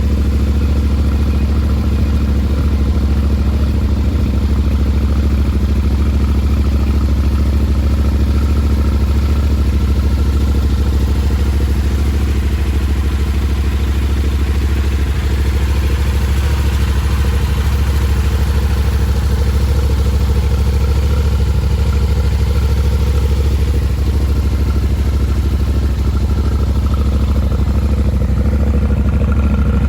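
Yamaha Ténéré 700's 689 cc parallel-twin engine idling steadily through a Power Box exhaust header.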